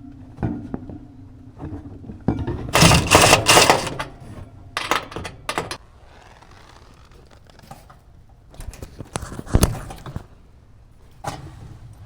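Irregular knocks and clatter in several bursts, the loudest cluster about three seconds in and another sharp one near ten seconds.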